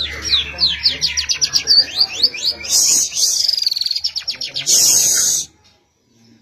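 Tiarap songbird singing loudly: a fast run of short, downward-sliding whistled notes, about five a second, broken by harsh hissing bursts about three seconds in and again near five seconds. The song stops abruptly about five and a half seconds in.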